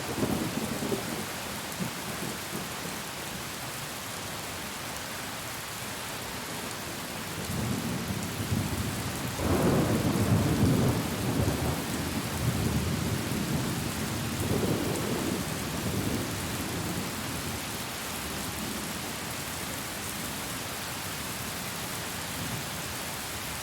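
Steady heavy rain with thunder: the tail of a rumble dies away at the start, then a louder, long rumble builds about eight seconds in, peaks a couple of seconds later and fades out over the next several seconds.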